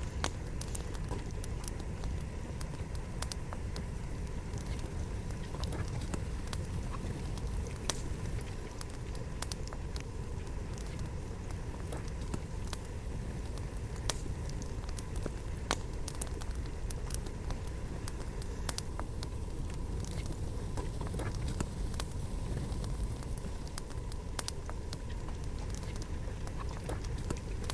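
Wood campfire burning: a steady low rush of flame with frequent irregular sharp crackles and pops from the burning logs.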